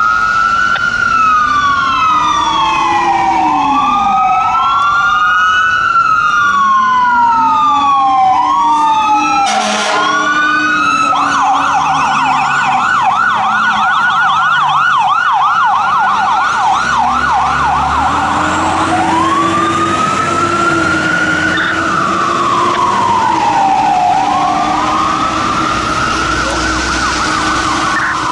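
Fire engine siren on a 2010 Spartan Gladiator pumper responding: a rising and falling wail that switches about eleven seconds in to a rapid yelp for some eight seconds, then goes back to the wail. A lower, slower rising and falling siren tone sounds underneath at times.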